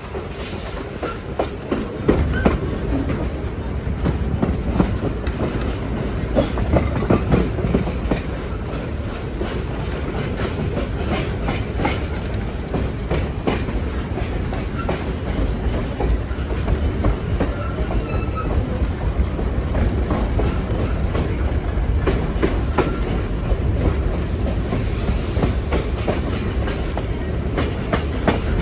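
Excursion train rolling along the track: a steady low rumble with the wheels clicking irregularly over the rail joints.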